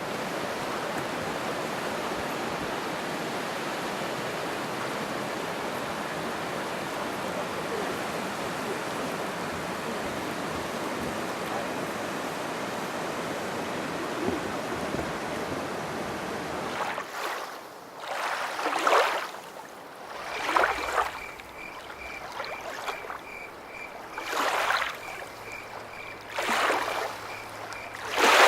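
Steady rush of flowing water for most of the first two thirds, then it changes to a series of swelling, splashing surges of water about every two seconds.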